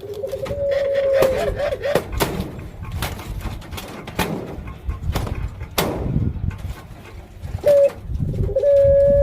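Puter pelung dove (domestic ringneck dove) cooing. There is one long, level coo that breaks into a wavering trill near the start, and another long coo begins about a second before the end. Scattered sharp clicks and knocks fall in between.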